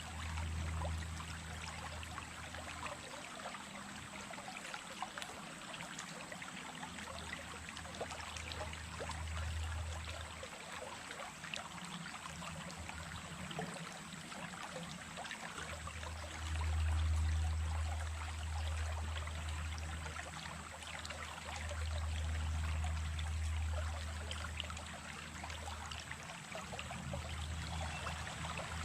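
Small stream running steadily, a continuous babbling trickle of water. Underneath, a low rumble swells and fades several times, loudest about 17 seconds in and again around 22 seconds.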